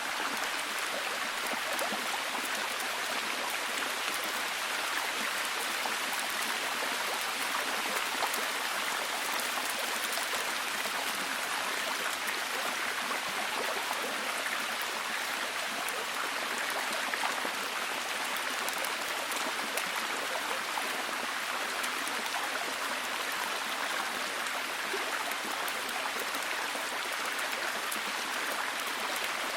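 Steady heavy rain falling: an even hiss of dense drops with no breaks or changes in level.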